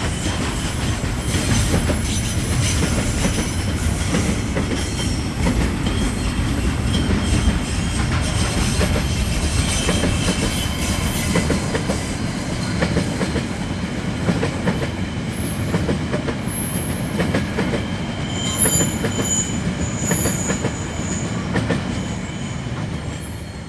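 A freight train rolling past on the rails with a continuous rumble and rhythmic clickety-clack. High-pitched wheel squeals come and go, mostly in the second half.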